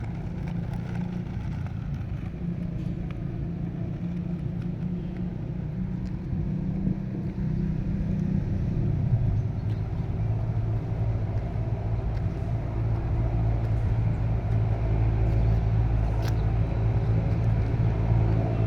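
A motor vehicle's engine running steadily with a low hum, its pitch dropping about nine seconds in.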